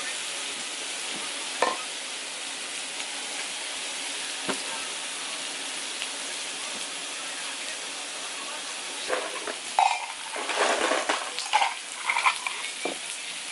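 Food frying in a pan with a steady sizzle. From about nine seconds in, a utensil stirs it and clatters against the pan.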